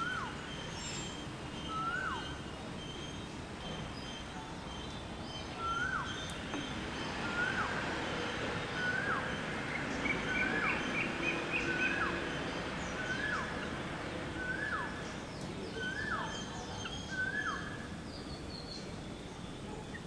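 A bird calling over and over, each call a short note that rises and then drops sharply. It calls about eleven times, roughly every second and a half, with a longer pause after the first two calls. About halfway through there is a brief run of quicker, higher notes.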